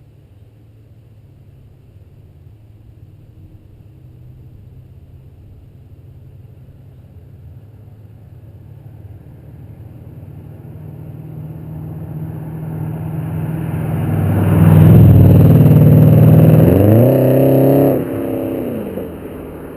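Chrysler 300 SRT-8 wagon's Hemi V8 through a Magnaflow exhaust, driving by. It builds steadily as the car approaches, is loudest for a few seconds with the revs climbing as it passes under hard throttle, then cuts sharply near the end as the throttle is lifted, and falls in pitch as the car moves away.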